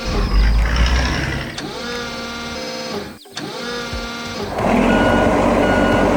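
Animated-vehicle sound effects: a machine whine that rises and falls in pitch several times, then, about two-thirds of the way in, a louder rush of noise with a repeating beep like a truck's reverse alarm.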